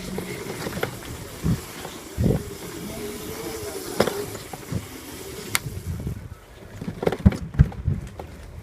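Razor MX500 electric dirt bike running, its electric motor whining faintly, with a string of sharp knocks and rattles, the loudest near the end.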